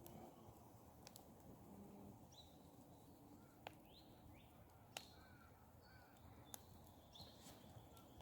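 Near silence with faint bird calls, short rising chirps scattered through, and a few sharp pops from a wood campfire.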